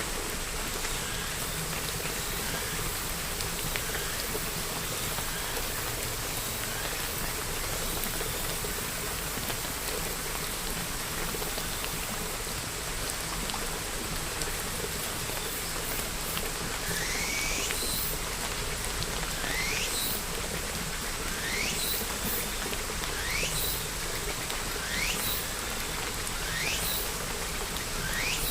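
Steady rain falling. From about two-thirds of the way in, a high chirp that sweeps upward repeats roughly every second and a half to two seconds over the rain.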